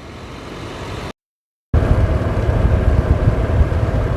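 Steady motor vehicle and road noise. It drops out completely for about half a second a second in, then comes back as a louder, low, steady rumble.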